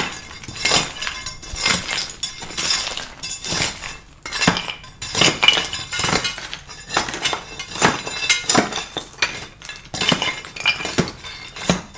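Pieces of broken driveway rubble clinking and clattering in sharp, irregular knocks, about one or two a second, as they are picked up and dropped into a rubble bag.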